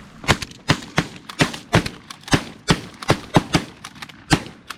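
Several hunters' shotguns firing a rapid, overlapping volley at geese, about a dozen shots in under five seconds, each a sharp crack.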